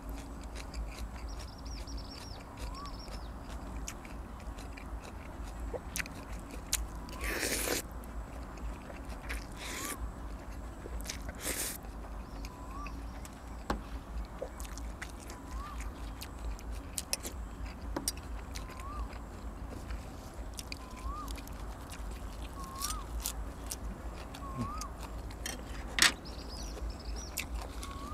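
A person eating rice noodles in curry with raw vegetables close to the microphone: chewing with many small mouth clicks and a few louder noisy bites, and one sharp click near the end, the loudest sound. A bird gives a short rising-and-falling chirp every second or two in the background.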